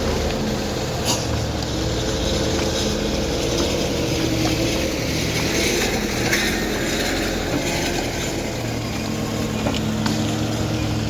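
Vehicle engines running steadily, with a constant low drone of road traffic and a few faint knocks.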